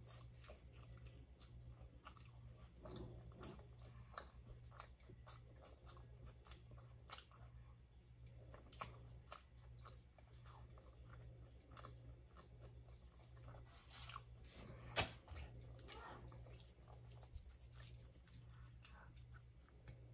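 Quiet close-miked chewing of a mouthful of naan: soft, irregular wet mouth clicks and small crunches, with one louder bite about fifteen seconds in.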